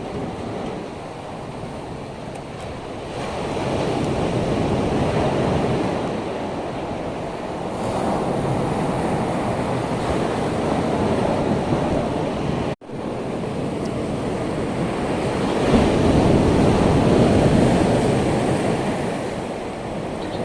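Rushing noise of surf and wind, with gusts on the microphone, swelling and easing every few seconds. There is a brief dropout about 13 seconds in.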